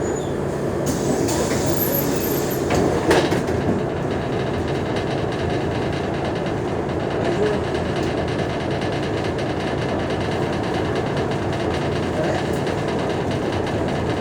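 Mercedes-Benz O345G articulated city bus running steadily, with a constant low engine drone and a brief rattle about three seconds in.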